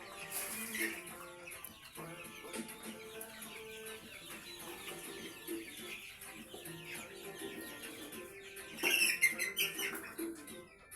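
Chickens clucking over background music, with a brief louder noisy burst about nine seconds in.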